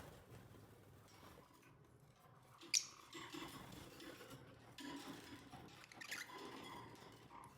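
Lovebirds moving about with faint rustling and a few soft chirps, and one sharp click about three seconds in.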